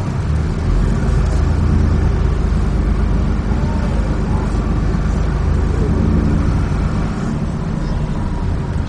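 Dennis Trident 2 double-decker bus under way, heard from inside the cabin: a steady low engine rumble with road noise.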